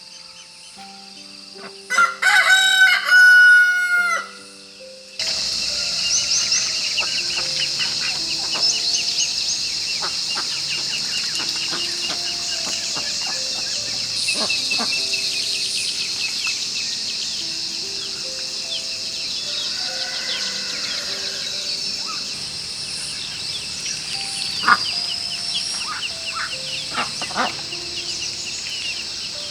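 A rooster crows once, loudly, about two seconds in, over soft background music. After it a steady, high-pitched insect chorus with scattered bird chirps sets in and runs on under the music.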